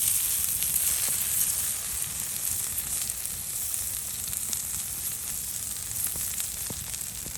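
Food frying in a pan over a campfire: a steady sizzle with occasional small pops.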